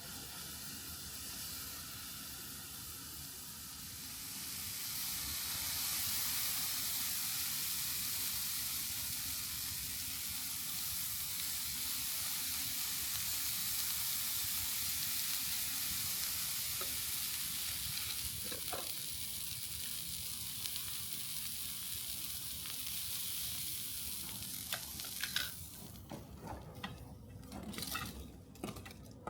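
Steady sizzling hiss that swells about four seconds in and eases off near the end, followed by a few light metallic clinks.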